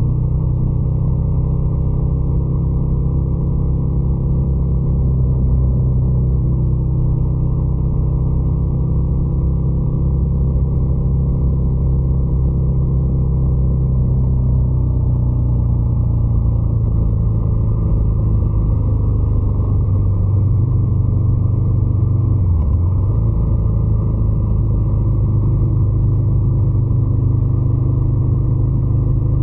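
Motorcycle twin-cylinder engine running steadily with a loud, even note that shifts slightly in pitch, dipping briefly about three-quarters of the way through.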